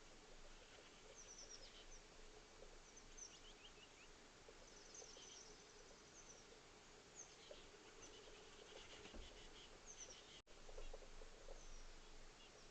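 Faint, distant small-bird chirps: short high notes that fall in pitch, scattered every second or two over a quiet background with a low steady hum. The audio cuts out for an instant about ten seconds in.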